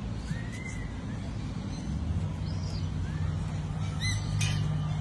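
A few short bird calls, each a quick rising-and-falling chirp, over a low steady hum that sets in about two seconds in.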